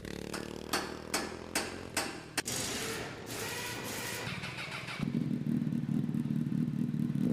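Motorcycle engine running, with a run of about five sharp knocks in the first two and a half seconds. It gets louder and steadier from about five seconds in, then drops in pitch at the very end.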